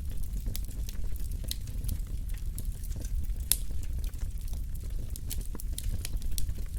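Wood fire burning in a fireplace: a steady low rumble of flames with frequent sharp crackles and pops, the loudest pop about halfway through.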